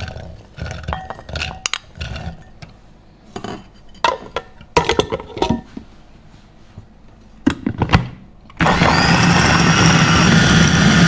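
Garlic cloves dropping into a glass chopper bowl, and the lid and motor unit knocking into place, as a run of scattered clicks and knocks. About two-thirds of the way through, a Sandeer electric food chopper's motor starts and runs steadily at full speed, chopping the garlic.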